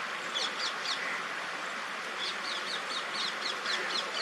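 A small bird chirping: short, quick, high notes that fall in pitch, in a brief run near the start and a longer run of several notes a second from about two seconds in, over a steady background hiss.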